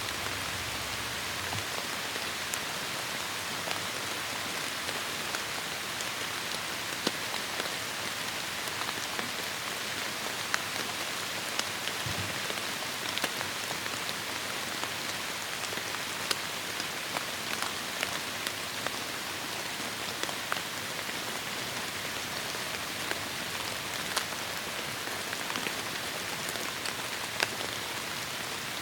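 Heavy rain falling steadily in a forest: an even hiss with many scattered, sharper individual drop hits.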